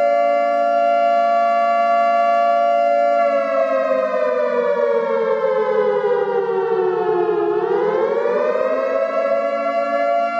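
Emergency warning siren wailing: a steady loud tone that slowly falls in pitch from about three seconds in, bottoms out near the eight-second mark, then climbs back and holds.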